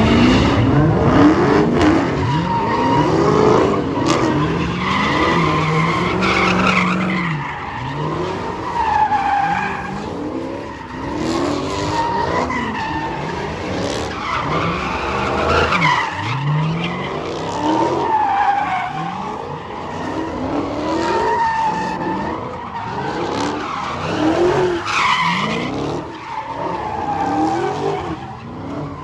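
Tires squealing continuously as a V8 muscle car spins its wheels in a burnout, the squeal wavering up and down in pitch over the engine's revving.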